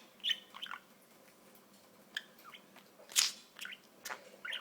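Pet budgerigar making a string of short clicks and little squeaky chirps with pauses between them, the loudest a sharp click about three seconds in.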